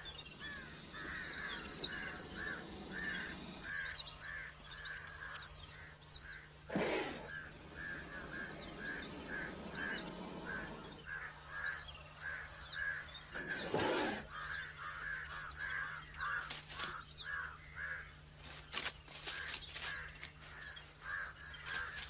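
Birds calling in quick repeated chirps, several a second, with a couple of louder brief swishes about a third of the way in and again past halfway.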